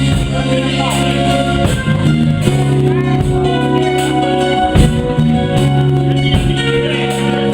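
Live band playing, with guitar and drums.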